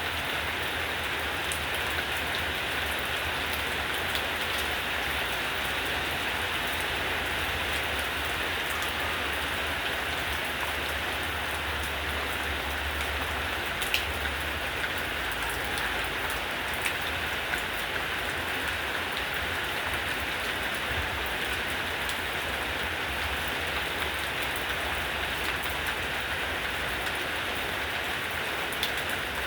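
Steady heavy rain falling, a constant hiss of drops on surfaces with a low rumble underneath and occasional sharp ticks of single drops close by.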